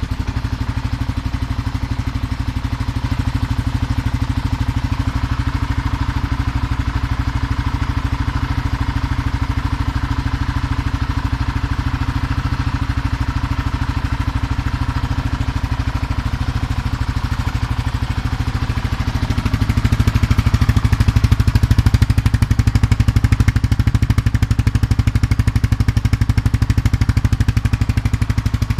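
Kawasaki KLR600's single-cylinder four-stroke engine idling steadily while it warms up after a cold start, getting somewhat louder about two-thirds of the way through.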